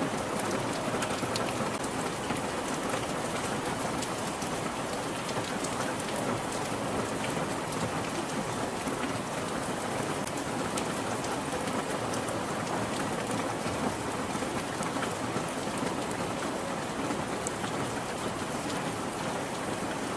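Steady rain falling on a surface, a dense even hiss with many fine individual drop clicks, no thunder.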